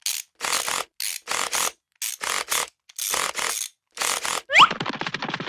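Cartoon sound effects: a run of short scraping strokes, some coming in quick pairs or threes, then a quick rising whistle near the end followed by fast ratcheting clicks.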